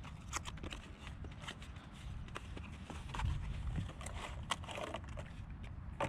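Scattered light clicks and knocks of small valve parts being handled and fitted together, over a low steady rumble.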